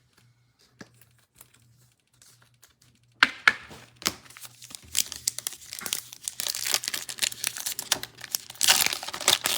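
Foil wrapper of a 2021 Illusions football card pack being torn open and crinkled, starting about three seconds in after a few faint clicks, with a loud crackling burst near the end.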